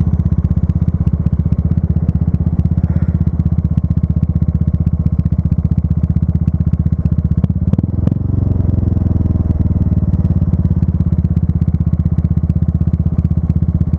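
Motorcycle engine running steadily under way, with a fast even thrum. About eight seconds in it briefly drops off, then its pitch falls gradually as the bike slows.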